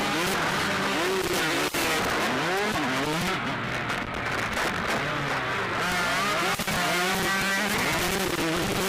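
Several motocross bikes racing, their engines revving hard, the pitch rising and falling again and again as riders open and close the throttle through the track's sections.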